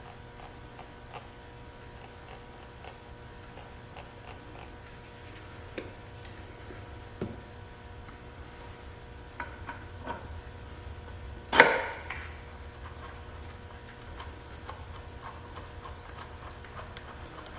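Small scraping, rubbing and light clicking of hand work on bolts as Loctite-coated coupler bolts are handled and threaded in, with one louder knock a little past halfway. A steady faint hum runs underneath.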